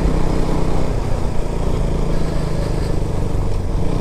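KTM Duke 200's single-cylinder engine running steadily while riding, over a low rumble of wind on the microphone. The engine note eases about a second in and comes back up near the end.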